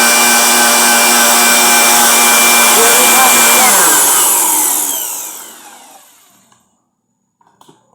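Electric fan running with a steady motor hum and high whine, then switched off about three and a half seconds in: the pitch falls as the blades spin down and the sound fades out over about two seconds. A few faint clicks near the end.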